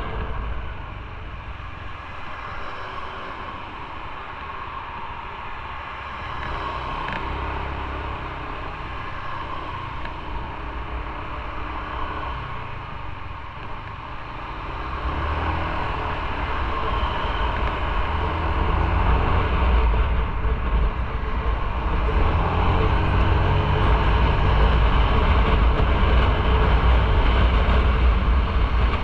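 Motorcycle riding on the road: engine rumble mixed with wind and road noise, quieter at first and growing louder about halfway through.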